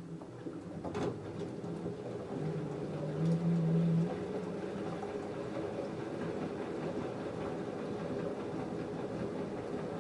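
LG front-loading washing machine's drum starting to turn again after a pause in the cotton wash: a motor hum, a click about a second in, then the steady rumble of the wet load tumbling.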